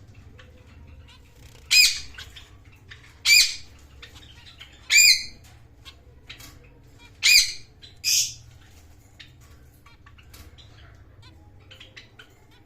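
A pet bird squawking: five loud, harsh calls, the last two in quick succession, with faint small chirps and clicks in between.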